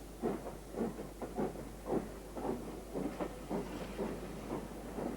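Great Central D11 4-4-0 steam locomotive working under steam, its chimney exhaust beating out a steady chuff over a background hiss, the beats quickening a little as it goes.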